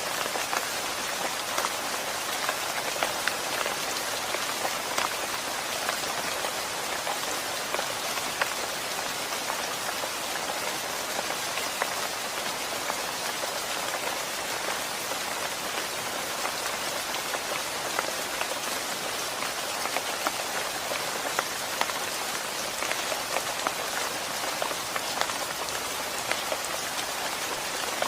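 Steady rain falling on a hard surface: a dense, even hiss with many sharp individual drop taps scattered through it.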